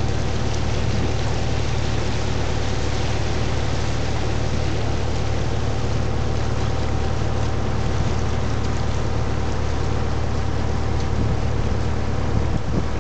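Sightseeing boat's engine running steadily with a low drone, under a constant rush of wind and water.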